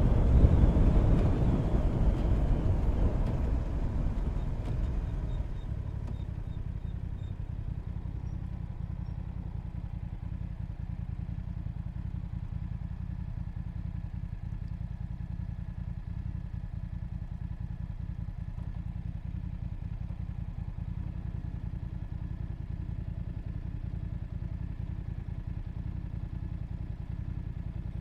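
Motorcycle slowing down, its engine and wind noise falling away over the first five seconds, then the engine idling steadily with a low rumble.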